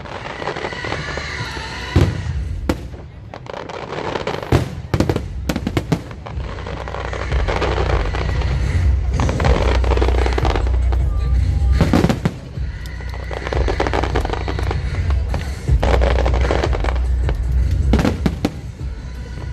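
Aerial fireworks display: repeated sharp bangs of bursting shells, some with crackle, over a continuous low rumble of booms.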